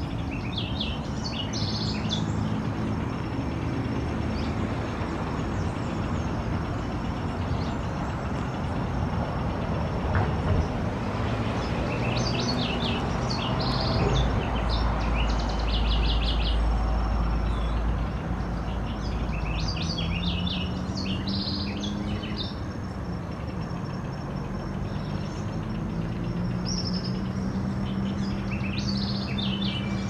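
Bird chirping in several short bursts of quick, high notes, near the start, around the middle, about two-thirds through and near the end. Under them runs a steady low drone, with a deeper rumble around the middle.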